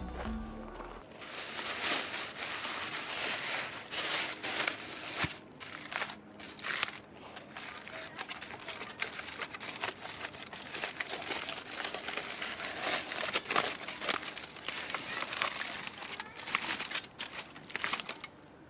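Continuous crinkling and rustling, broken by many short crackles, starting about a second in.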